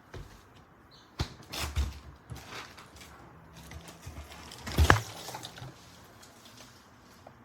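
Knocks and clatters from a mini fridge being handled, a few in quick succession, then the loudest thump about five seconds in.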